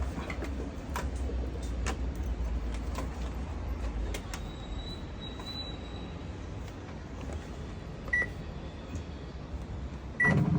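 Whirlpool pulsator washing machine's control panel giving two short high beeps about two seconds apart near the end, over a low steady rumble and a few light clicks.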